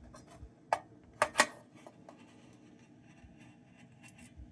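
A few sharp clicks and taps of small metal lantern parts being handled, three louder ones close together around one second in, with faint ticks in between.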